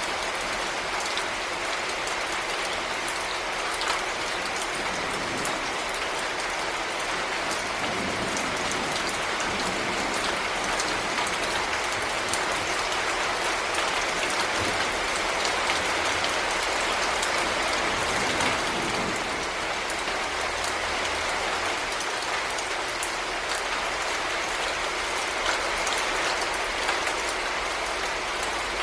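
Heavy rain falling steadily: a dense, even hiss with many individual drops ticking on a surface.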